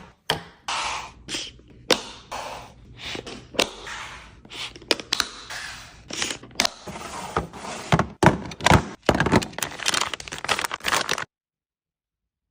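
Food containers and packages being handled and set down on fridge shelves: a run of knocks and thunks with plastic packaging rustling between them. It cuts off suddenly near the end.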